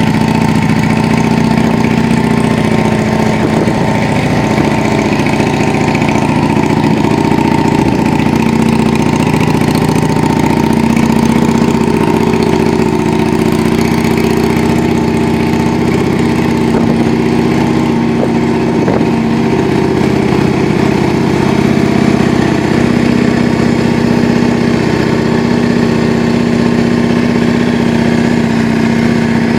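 Yamaha Drag Star 400's V-twin idling steadily through a custom aftermarket muffler.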